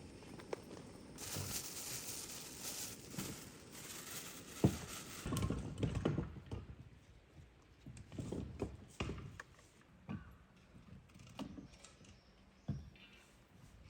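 Camping gear being handled by hand: rustling and crinkling early on, then irregular knocks, thuds and clicks as items are moved and set down.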